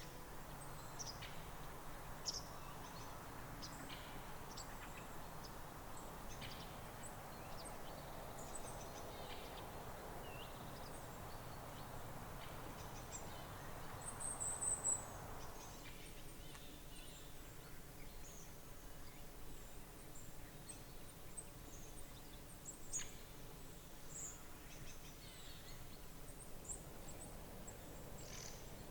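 Faint steady background noise with scattered short, high bird calls, and a slightly louder cluster of calls about halfway through.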